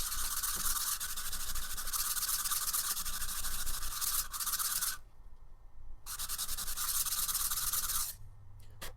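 Hand sanding: a part rubbed back and forth on sandpaper to flatten it, a rapid, steady rasp. It stops about five seconds in, resumes a second later, and stops again near the end.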